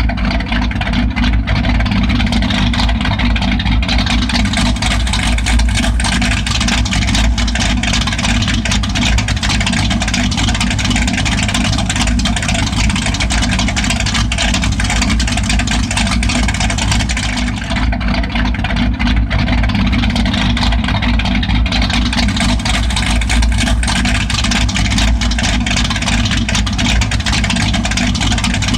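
1995 Ford F-150 idling through a straight-piped exhaust: loud, steady and low.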